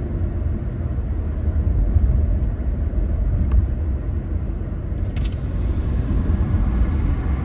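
A car driving along with a steady low rumble of road and engine noise. A couple of faint ticks sound about halfway through.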